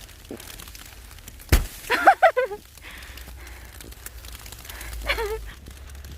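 A thrown snowball lands with a single sharp crack about one and a half seconds in, followed at once by a few short, high-pitched vocal cries. A fainter cry comes near the end, over low wind and snow noise.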